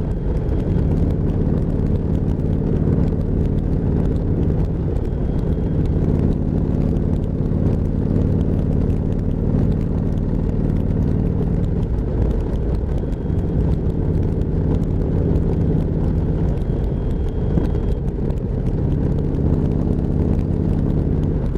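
Motorcycle engine running steadily under way, heard from the rider's own mic, with road and wind noise. The engine note shifts twice, about twelve seconds in and again near eighteen seconds.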